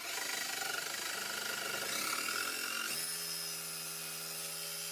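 Handheld electric power tool cutting plywood wall sheeting: a rough, noisy cut for about three seconds, then a steadier pitched whine as the motor keeps running.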